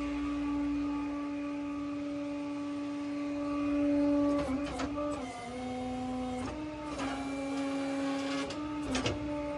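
Tow truck's hydraulic pump running with a steady whine, its pitch dropping several times as the loading controls are worked and the hydraulics take load, with a few clicks.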